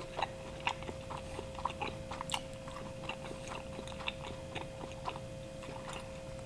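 Close mouth sounds of a person chewing a slice of Detroit-style pepperoni pizza: irregular soft clicks and smacks, a few a second. A faint steady hum runs underneath.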